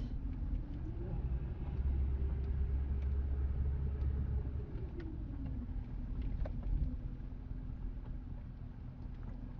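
Ford Crown Victoria Police Interceptor's 4.6-litre V8 running. Its pitch rises about a second in and holds for a few seconds with a heavy low rumble, then falls back to idle about five seconds in.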